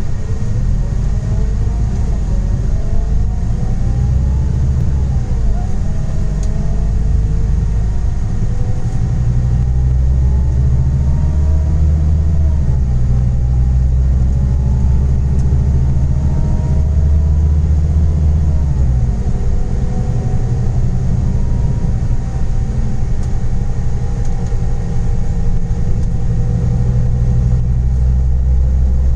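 Scania Interlink coach's natural-gas engine accelerating under a steady low rumble, its rising whine dropping back at each gear change, three times.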